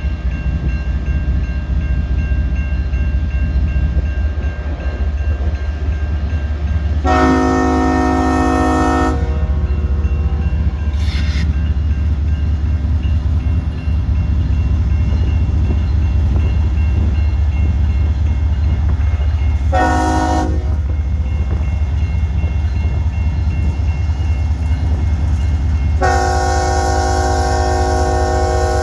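Locomotive air horn sounding a chord of several pitches: a blast of about two seconds, a short blast some twelve seconds later, then a long blast starting near the end, over a steady low rumble.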